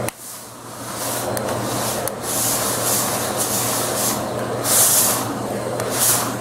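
Vacuum cleaner running with a steady motor hum, its level dipping sharply at the start and recovering, with several surges of hissing suction as the nozzle is worked over a cat's fur to pick up shed hair.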